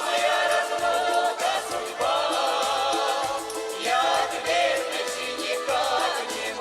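A group of voices singing a Russian folk-style song together, holding long wavering notes and starting a new phrase every second or two, over a steady rhythmic accompaniment.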